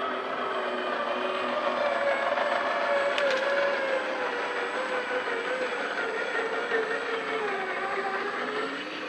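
Electric drive motor and gearbox of a scratch-built RC Dodge Power Ram scale truck whining steadily as it drives along the trail, the pitch wavering and sagging slowly before rising again near the end.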